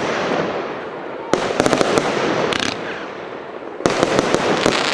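A 36-shot fan-shaped firework battery (cake) firing: sudden volleys of shots, each followed by a cluster of sharp bangs and crackling, with a new volley about a second in and another near the end.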